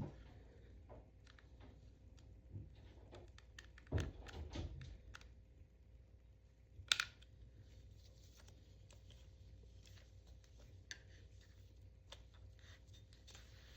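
Scattered small clicks and knocks of objects being handled, with a low thump about four seconds in and a single sharp click about seven seconds in.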